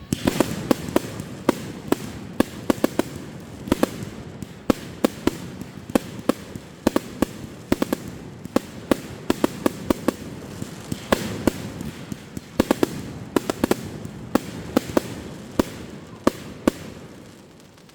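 Fireworks going off in a dense barrage: many sharp bangs in quick, irregular succession over continuous crackling, thinning out near the end.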